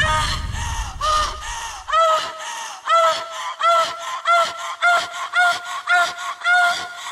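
A bird honking over and over, about two short calls a second. Music stops in the first second.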